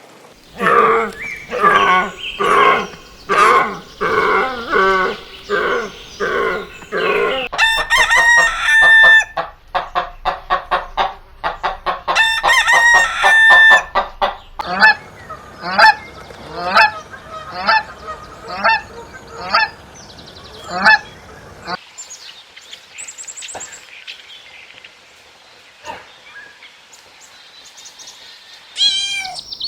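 Domestic fowl calling loudly over and over, at first about two calls a second. In the middle come rapid chattering and two long held calls. Spaced calls follow about once a second, then a quieter stretch near the end.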